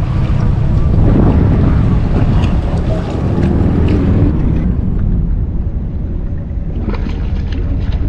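Wind buffeting the microphone in a steady low rumble, over the rushing of river water, with a few short crackles and splashes.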